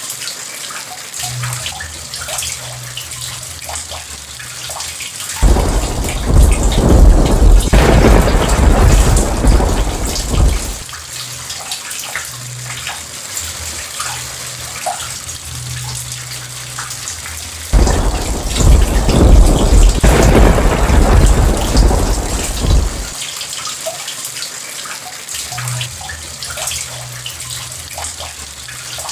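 Steady rain with a fine patter of drops, and two long rolls of thunder that break in suddenly about five seconds in and again about eighteen seconds in, each rumbling for about five seconds.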